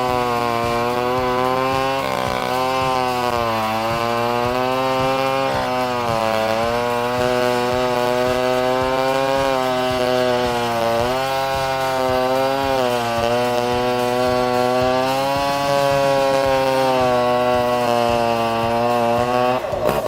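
Engine-driven saw running under load, its pitch sagging and picking back up every couple of seconds as it cuts through wood.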